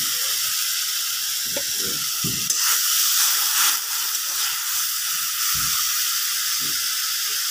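Onion and spice paste sizzling in hot oil with a little water in an iron karahi: a steady hiss, swelling for a moment about three seconds in, with a few soft knocks. This is the masala being cooked down (kashano) for a fish bhuna.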